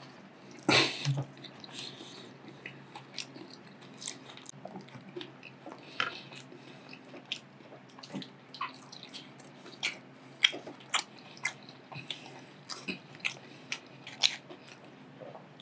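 Close-miked chewing of raw ahi tuna poke and a spicy tuna hand roll: wet mouth clicks and smacks at an irregular pace, with a louder bite under a second in.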